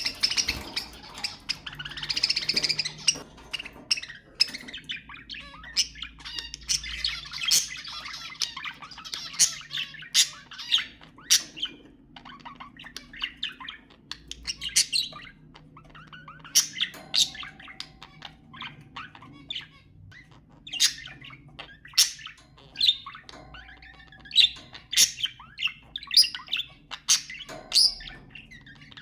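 Budgerigars chattering: a busy warble broken by many short, sharp chirps.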